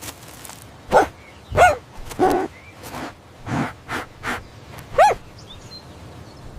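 A series of about six short animal calls, each brief and pitched, spaced unevenly over several seconds.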